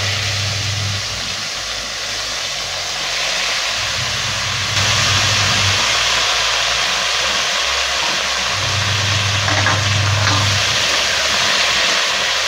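Boiled taro stems sizzling in hot mustard-oil tempering in a kadai, a loud, steady frying hiss that gets louder about five seconds in.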